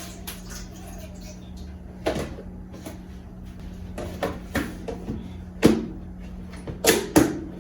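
Kitchen clatter: sharp knocks of dishes, containers and cupboard doors being handled and set down, about seven in a few seconds, the loudest a little after halfway and a quick pair near the end, over a steady low hum.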